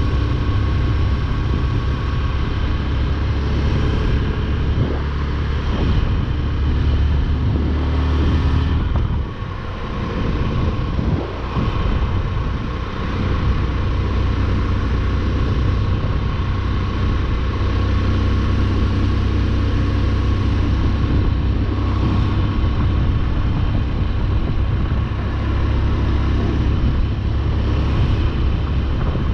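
Motorcycle engine running steadily at cruising speed, heard from the rider's seat along with road and wind noise. The engine eases off for a moment about nine seconds in, then picks up again.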